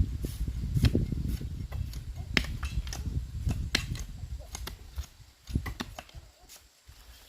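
Hand digging and stone work: irregular sharp knocks and clicks of tools or stones striking, over a low rumble that eases after about five seconds.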